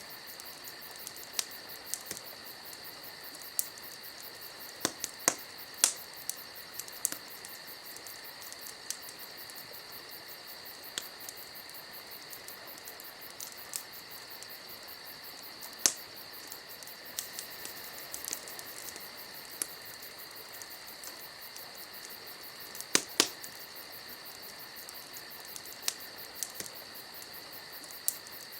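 Wood fire crackling, with irregular sharp pops and snaps scattered through, over a steady high-pitched drone.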